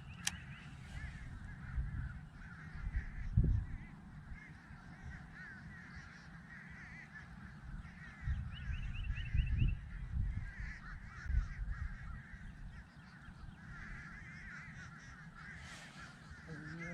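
A flock of birds honking and calling continuously, goose-like, with a few low thumps mixed in.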